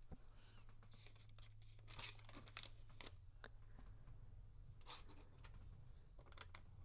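Quiet handling of LEGO pieces: scattered small clicks of plastic bricks and short crinkling rustles, over a low steady hum.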